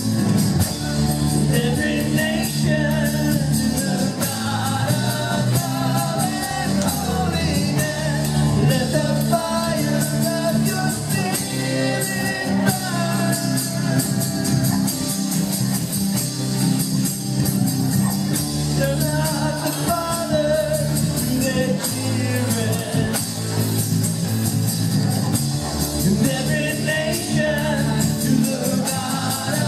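Live worship band playing with singing: guitar, keyboards and drums under voices, in a reverberant hall.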